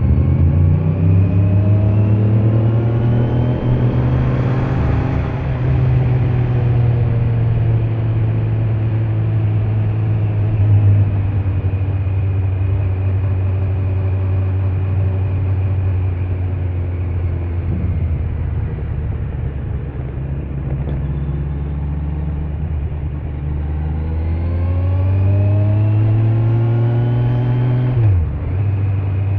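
Kawasaki Z900 inline-four engine with its stock exhaust, under way. It accelerates over the first few seconds, then holds a fairly steady cruise. Near the end it pulls up in revs again, and the pitch drops sharply at an upshift.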